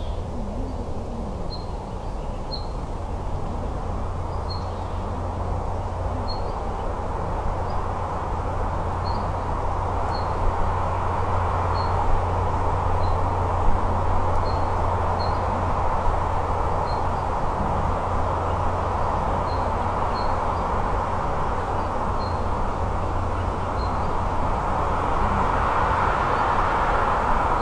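A small bird gives short, high chirps about once a second over a steady rushing of wind, which swells near the end.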